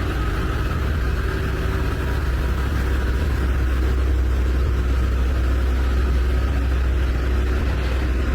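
Heavy truck diesel engines running under load as they pull a heavy load up a steep grade: a steady low drone that grows a little louder over the first few seconds.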